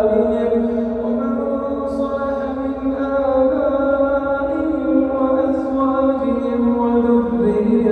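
A man's voice chanting Quran recitation in slow melodic tajweed, holding long drawn-out notes that waver gently in pitch and dip lower near the end.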